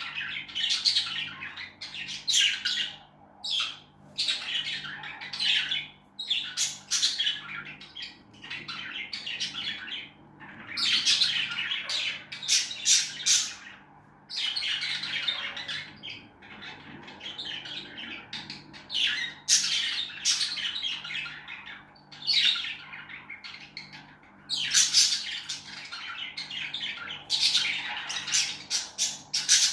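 Pet lovebirds chattering and squawking in shrill, harsh bursts that come every second or two with short pauses between, over a faint steady low hum.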